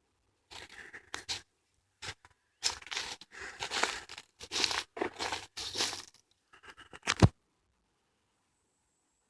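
Footsteps crunching on a woodland path, roughly two steps a second, ending with a sharper, heavier step or knock about seven seconds in.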